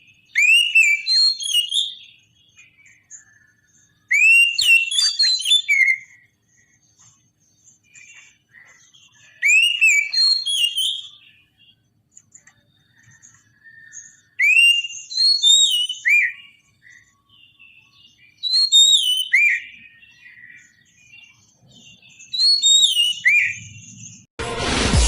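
Oriental magpie-robin (kacer) singing: about six loud phrases of swooping whistled notes, each a second or two long and a few seconds apart, with fainter chirps between. Music starts abruptly near the end.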